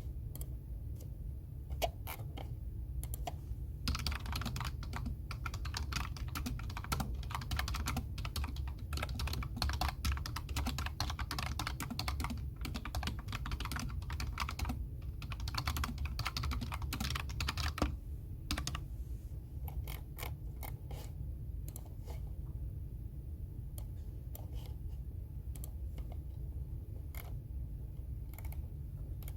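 Typing on a computer keyboard: a few scattered keystrokes, then fast continuous runs of typing from about four seconds in with a couple of brief pauses, slowing to sparser keystrokes after about eighteen seconds. A steady low hum runs underneath.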